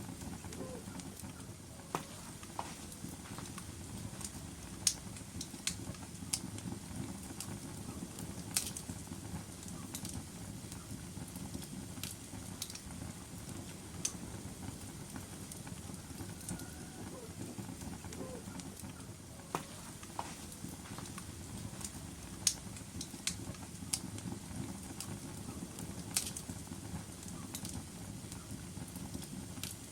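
Wood fire burning logs in a fireplace: a steady low rush of the flames, with irregular sharp crackles and pops from the burning wood every second or so, some louder snaps standing out.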